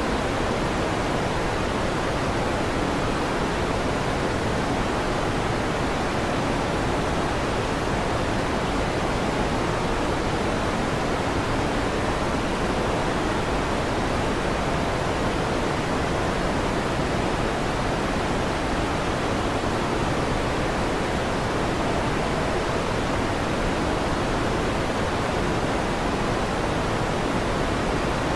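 Electric fan running, a steady even whooshing noise with no changes and no thunder claps.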